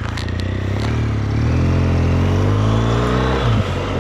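BMW GS boxer-twin motorcycle engine pulling hard under acceleration, its note rising steadily through the revs. About three and a half seconds in, the revs drop sharply at an upshift and the engine picks up again.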